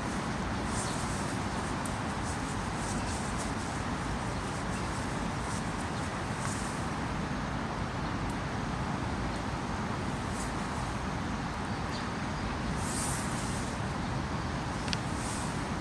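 Steady wash of heavy rain and running floodwater, with a few short high ticks scattered through it.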